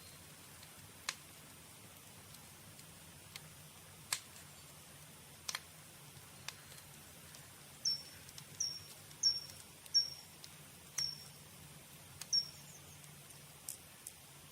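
Campfire crackling, with scattered sharp pops over a faint steady background. From about eight seconds in, a bird gives six short, high chirps, each dropping slightly in pitch, roughly one every second. The chirps are the loudest sound.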